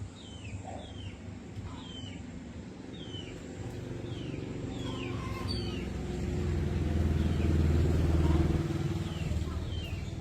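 A low rumble that swells from about four seconds in, is loudest around eight seconds, then fades. Short, high, falling bird chirps repeat behind it.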